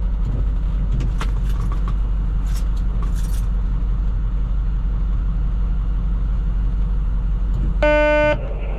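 Plow truck's engine running with a steady low rumble heard inside the cab, with a few light clicks or rattles early on and a short electronic beep about eight seconds in.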